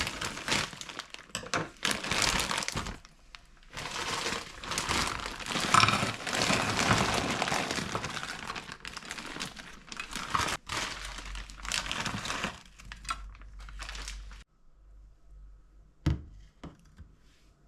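Plastic packaging crinkling and rustling in repeated bursts as it is handled, stopping about three-quarters of the way through, followed by a single light knock.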